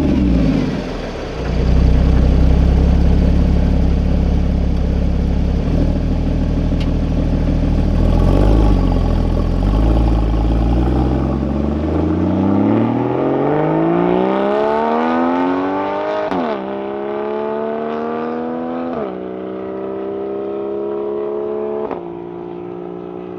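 Porsche 981 Cayman's flat-six through a SOUL Performance valveless exhaust: a loud blip at the start, then steady running at low revs, then about twelve seconds in it pulls hard, the note climbing through the revs with three upshifts, each a sudden drop in pitch.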